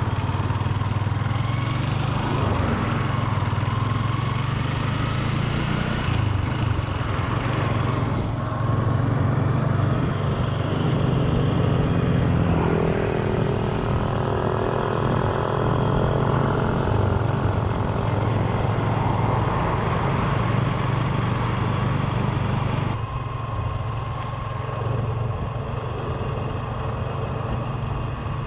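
Motor scooter cruising along a road: a steady engine hum mixed with wind and road noise. Near the end the sound gets a little quieter and less hissy.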